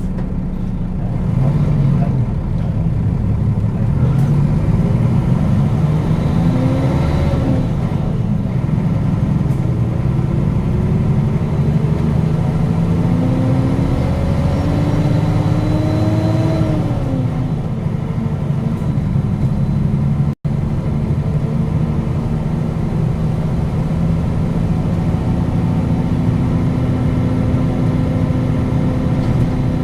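Nissan Diesel KL-UA452KAN city bus running, heard from on board: the diesel engine note rises twice as the bus pulls through its gears, then drops back and the bus cruises steadily. The sound cuts out for an instant about two-thirds of the way through.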